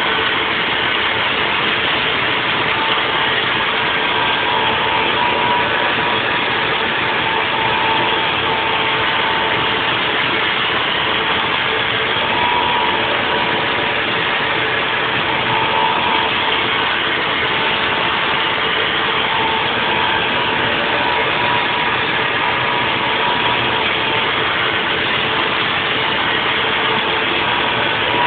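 Haas VF4 CNC vertical mill running a 3D machining cut: the spindle and cutter make a steady high whine over a broad, even machine noise. The whine swells and fades slightly as the cut goes on.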